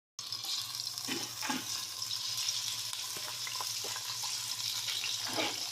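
Water running from a kitchen tap into a sink, a steady hiss with a few brief splashes, over a faint steady hum.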